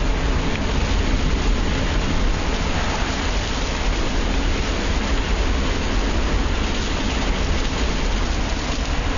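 Hurricane rain and wind: a steady, loud rush of heavy rain with a deep rumble of wind underneath.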